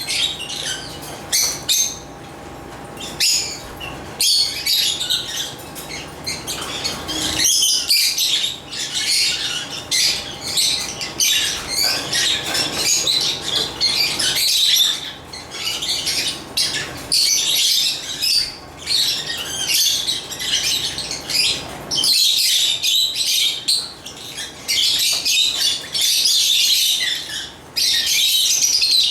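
African lovebirds (Agapornis) chirping in a dense, near-continuous chatter of high, sharp chirps and squawks, with a short lull about two to four seconds in.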